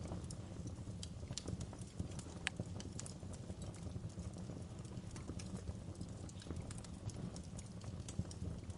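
Wood fire crackling in a fireplace: irregular sharp snaps and pops over a steady low rumble, with one louder snap about two and a half seconds in.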